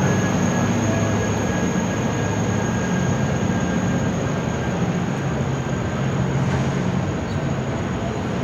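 Basel tram running on its rails: a steady rumble with a thin, high whine held throughout.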